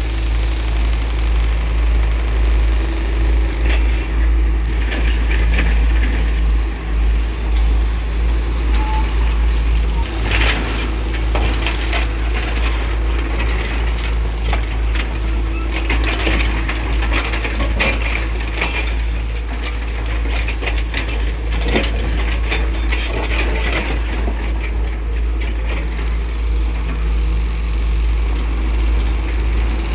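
Tata Hitachi 210 long-reach excavator running steadily at work, a deep, even diesel hum with scattered clanks and clattering.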